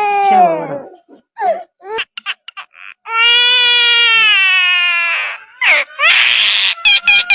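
A bird giving long, wailing, cry-like calls. Short clicks and chirps fall between the calls, and a brief hiss comes near the end, followed by quick short calls.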